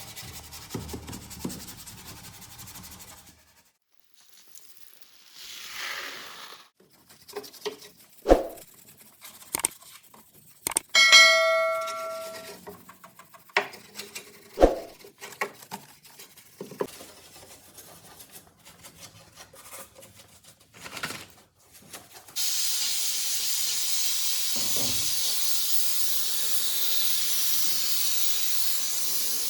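Engine-detailing work: rubbing and a few sharp clicks, a brief metallic ring, then a steady hiss of spraying that starts about three-quarters of the way through and keeps going.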